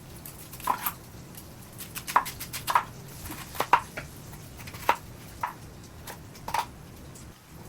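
Light, irregular taps and clicks of kitchen work while preparing sweet potatoes, about one to two a second, some with a brief ring like utensils or a dish.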